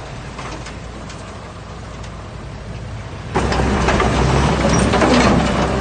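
Diesel engine of heavy earthmoving machinery running steadily at low revs, then about three seconds in a sudden, much louder rush of rumbling and clattering that carries on.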